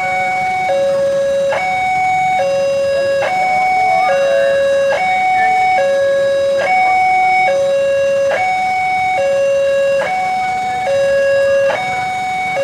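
Railway level crossing warning alarm sounding: a loud electronic two-tone signal that switches back and forth between a lower and a higher tone, each held a little under a second, repeating steadily. It is the signal that a train is approaching and the crossing barriers are closing or closed.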